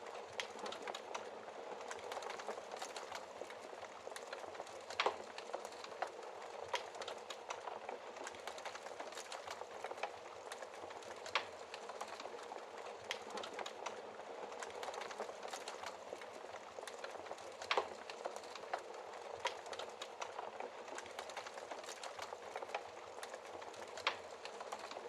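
A fire in a fireplace crackling over a steady hiss, with irregular sharp pops; the loudest come about five, eleven and eighteen seconds in.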